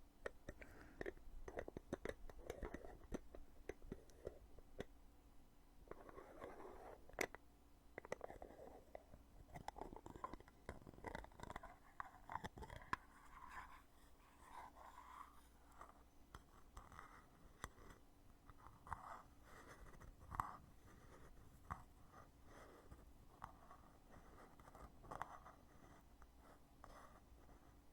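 Heavy lid of a foundation cosmetic container being opened and closed repeatedly, quiet clicks and taps mixed with soft rubbing and scraping of the lid and case, with sharper clicks about seven seconds and twenty seconds in.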